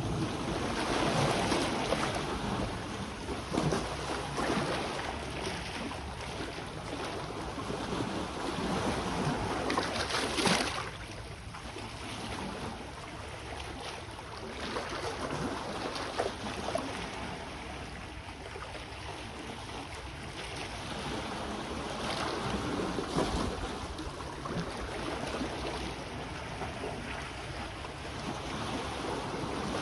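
Sea waves washing onto the shore, swelling and falling back every few seconds, with the biggest wash about ten seconds in.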